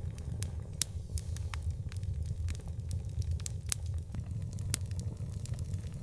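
Wood fire crackling: irregular sharp pops and snaps, about two a second, over a steady low rumble. The loudest pops come about a second in and near five seconds.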